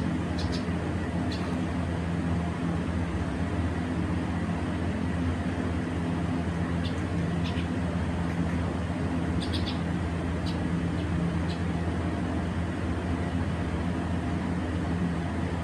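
Pet birds giving a few short, high chirps now and then, over a steady low mechanical hum.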